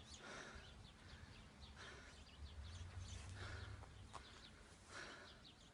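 Near silence: faint outdoor background with a low rumble and a few faint bird chirps.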